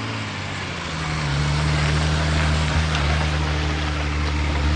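An engine running steadily with a low hum, settling to a lower, louder pitch about a second in.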